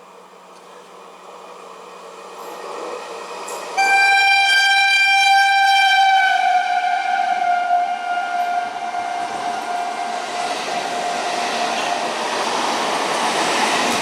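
Indian Railways train approaching at speed and sounding one long horn blast of about eight seconds, its pitch dropping slightly partway through as the train passes. Underneath, the rumble of the train on the track builds and grows louder toward the end.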